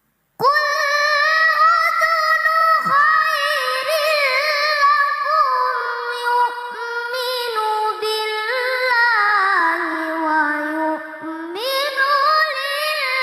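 A child qari's high voice chanting Quran recitation in the melodic tilawah style: one long, ornamented melismatic phrase that starts about half a second in after silence. The pitch sinks low past the middle and climbs back up near the end.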